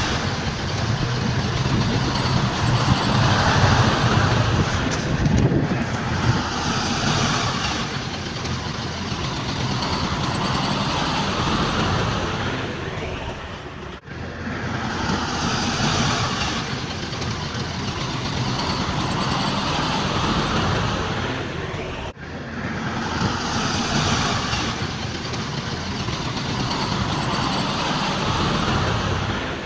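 Heavy diesel machinery, a bulldozer and dump trucks, running steadily at work. The sound breaks off and resumes abruptly twice, about halfway through and again near three-quarters of the way.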